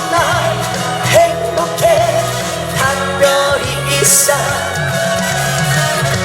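Live Korean trot song with a backing band, a singer's voice holding wavering, vibrato notes over a steady bass line.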